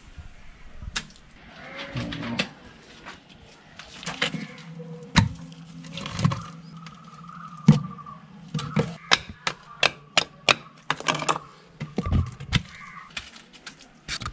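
Bricks knocking and clacking as they are handled and set into mud mortar: irregular sharp knocks, some loud, a few in quick succession.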